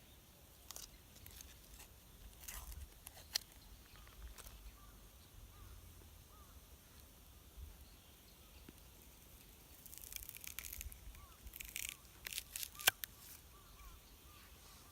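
Dry wood snapping and crackling: scattered sharp pops, then a quick run of them about ten to thirteen seconds in.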